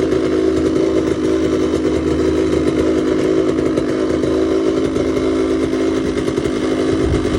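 A 2004 KTM 85 big wheel's single-cylinder two-stroke engine running steadily, warming up after a cold start.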